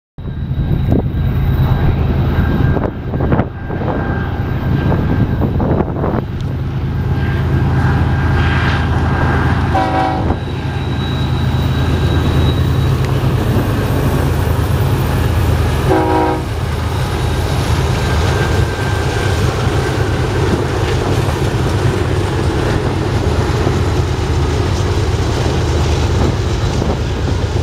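BNSF diesel locomotives of an intermodal train passing close by, their engines making a steady low drone over the rumble of wheels on rail. Two short horn sounds come about a third of the way in and again about six seconds later.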